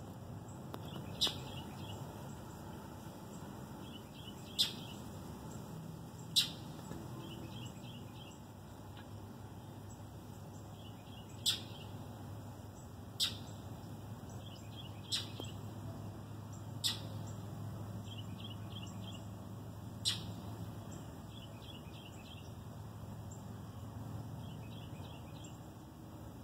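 Birds chirping: about eight sharp single chirps spread through, with quieter short runs of three or four high notes between them, over a low steady hum.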